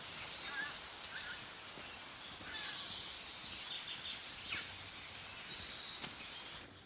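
Outdoor ambience: a steady hiss with birds chirping here and there.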